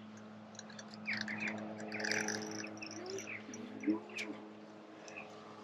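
Small birds chirping and twittering, busiest between about one and two and a half seconds in, over a steady low hum.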